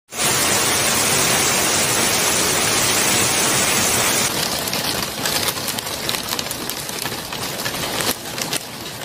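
Hail and heavy rain falling, a steady loud hiss of stones and drops hitting hard surfaces. About four seconds in it changes to a slightly quieter patter with many sharp individual ticks.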